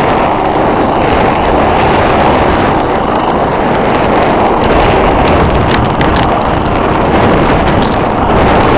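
Helicopter rotor and engine noise, a loud, steady roar mixed with wind on the microphone.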